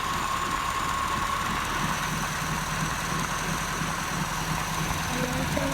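Tractor diesel engine running steadily, with a low hum that comes in about two seconds in.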